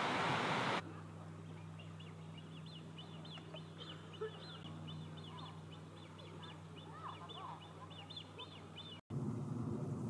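A bird calling a long, fast series of short high notes, several a second, over a faint low hum; the calling stops abruptly near the end. A loud rushing noise cuts off just before the calls begin.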